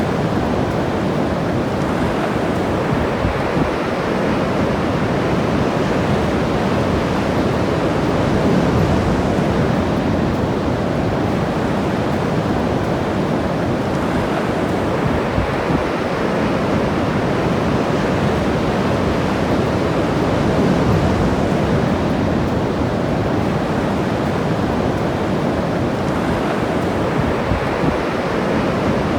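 Ocean surf washing on a beach, a continuous rush of breaking waves that swells gently a couple of times.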